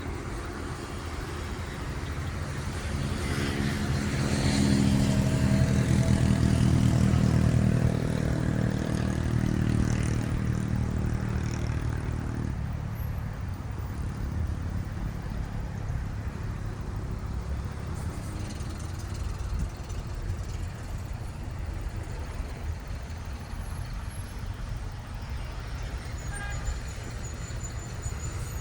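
Road traffic: a heavy vehicle's engine runs close by, swelling to its loudest a few seconds in and fading away by the middle, followed by steady traffic noise.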